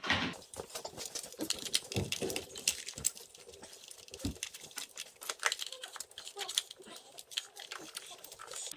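Irregular small plastic clicks and scraping from hand tools working on an old wiring-harness electrical connector.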